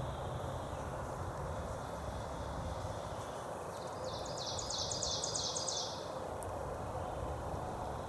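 A small songbird singing one trill, a rapid run of high repeated notes lasting about two seconds, starting a little under four seconds in, over steady outdoor background noise.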